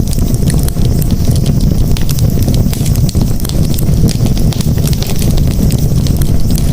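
Campfire crackling: frequent sharp pops and snaps of burning wood over a steady low rumble.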